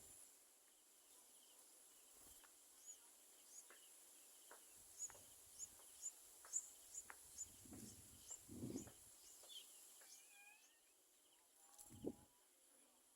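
Faint, short, high-pitched bird chirps repeated about every half second, followed by a brief warbling call and a low thump near the end.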